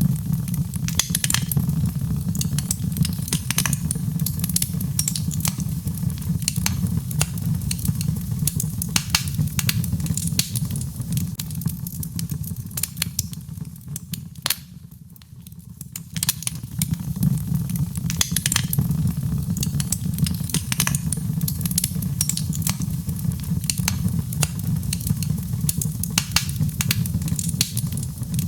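Birchwood fire burning in a fireplace: dense, irregular sharp crackles and pops over a steady low rumble, easing off for a second or two about halfway through.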